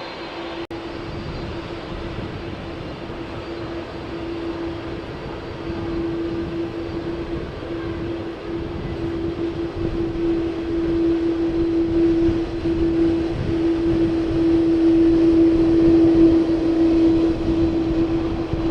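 Jet airliner engines running, a steady rushing noise with one droning tone that grows louder for about sixteen seconds and then eases a little.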